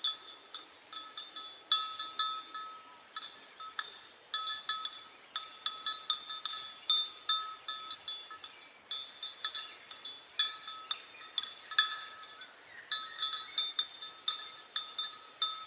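Small metal bell clinking in uneven bursts of several strikes a second, every strike ringing at the same two pitches, like a bell swinging with an animal's movements.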